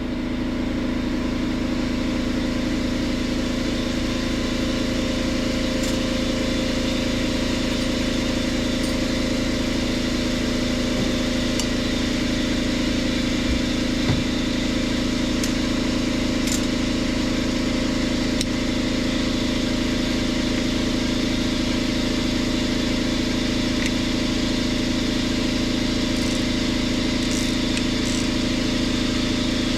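A motor-driven machine running steadily at an even pitch, with a few faint ticks over it.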